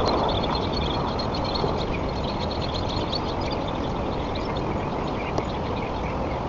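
Steady wind buffeting the nest camera's microphone, with faint, scattered high chirping over it.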